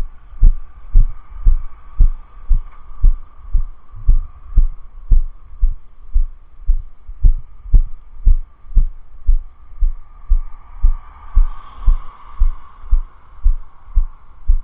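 Dull, deep thumps in an even rhythm, about two a second, over a steady faint rushing hiss that swells slightly near the end.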